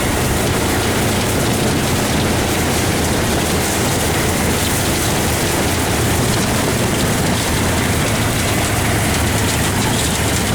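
Polaris RZR side-by-side running steadily, its engine hum under a constant hiss.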